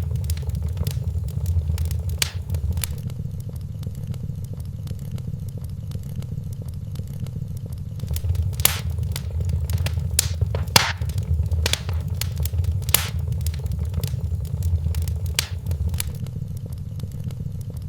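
Wood fire crackling in a fireplace, with scattered sharp pops over a steady low rumble of the flames; a cluster of louder pops comes in the second half.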